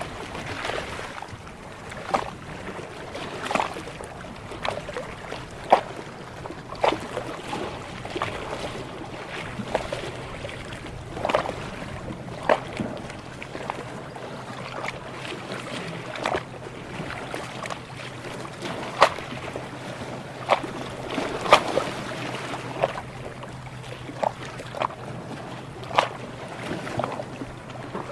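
Sea water lapping, with small sharp slaps and splashes coming irregularly about once a second over a steady wash. A faint steady low hum runs underneath.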